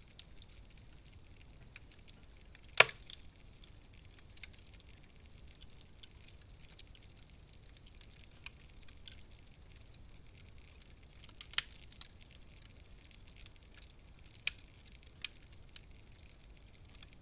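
Wood fire in a fireplace crackling sparsely: scattered sharp pops and ticks over a faint steady hiss, with one loud pop about three seconds in and a few more in the last third.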